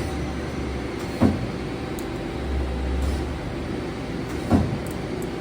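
Leadwell LTC-20BM CNC turning center running with a steady mechanical hum and a low rumble that comes and goes, broken by two sharp clunks, about a second in and near the end.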